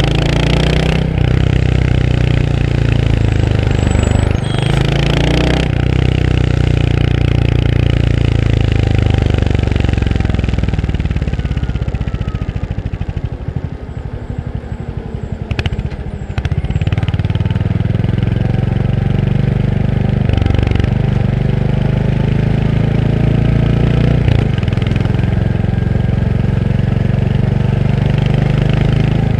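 Royal Enfield Hunter 350's single-cylinder engine running on the move. About halfway through, the revs fall away and the engine thumps slowly at low revs for a few seconds, then picks up again.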